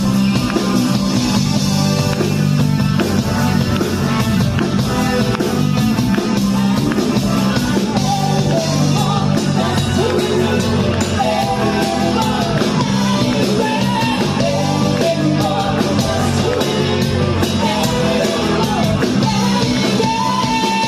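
Rock band music with a voice singing a wavering melody over the band.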